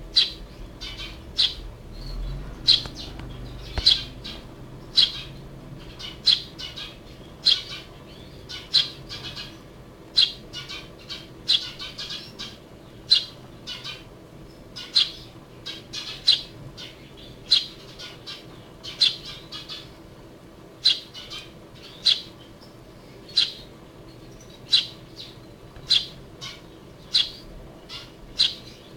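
Hand-reared Eurasian tree sparrow giving short, sharp chirps, one about every second, some in quick pairs.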